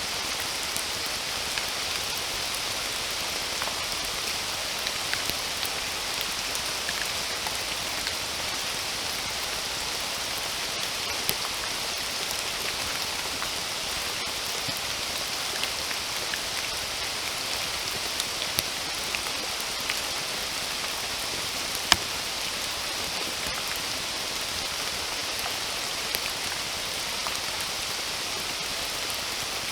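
Steady rain falling, an even hiss with scattered close drips and drop hits; one sharper drop strikes about two-thirds of the way through.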